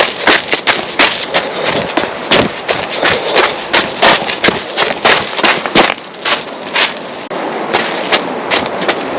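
A hiker's footsteps on a canyon trail: irregular sharp crunches and knocks, a few each second, over a rustling hiss.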